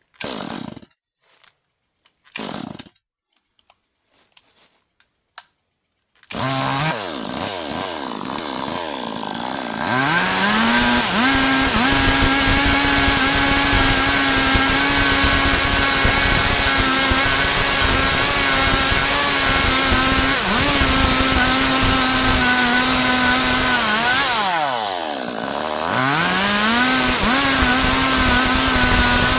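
Stihl MS 382 two-stroke chainsaw starting up about six seconds in, running at lower revs for a few seconds, then held at high revs. The revs dip and climb back once near the end.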